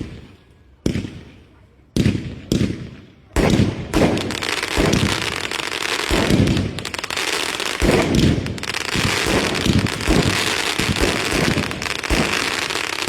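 Fireworks going off: a few single sharp bangs about a second apart, then from about three and a half seconds in a continuous barrage of rapid bangs and crackling.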